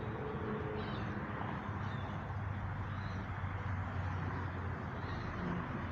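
Outdoor ambience: a steady low rumble and hiss, with a few faint short chirps.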